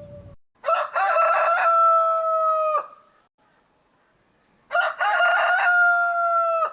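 Rooster crowing twice, each crow about two seconds long: a few short broken notes, then a long held note that drops away at the end.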